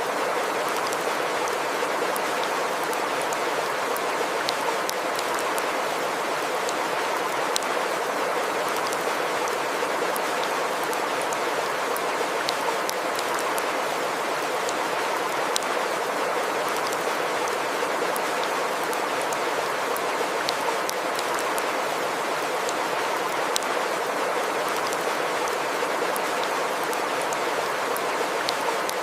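Running water from a small stream, a steady, even rush with scattered faint ticks of drips or splashes.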